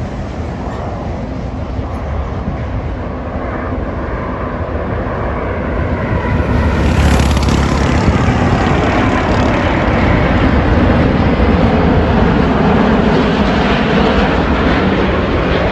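Jet airliner passing low overhead on its landing approach: the engine noise swells to its loudest about six seconds in and stays loud.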